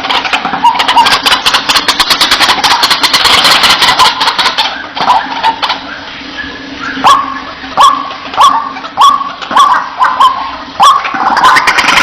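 White-breasted waterhen calling, as a lure recording: a dense run of rapid, harsh chattering calls, then from about five seconds a regular series of short, sharp hooked notes a little over half a second apart.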